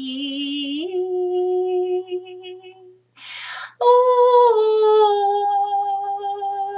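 A woman toning: long, wordless sung notes on a held pitch, each sliding by a step, with an audible breath about halfway through before the second note.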